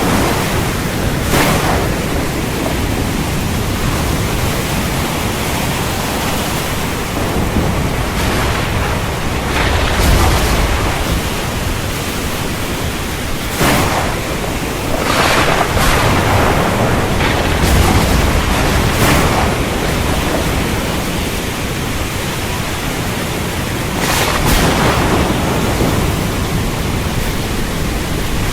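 Heavy rainstorm: a steady rush of rain with rumbles of thunder and several brief sharp cracks through it.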